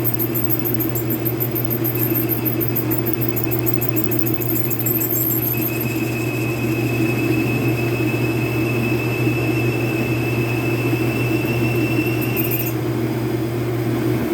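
Metal lathe running steadily with a constant hum while machining the shell mill. A thin, high whine joins about five seconds in and stops abruptly about thirteen seconds in, and the machine's hum drops away at the very end.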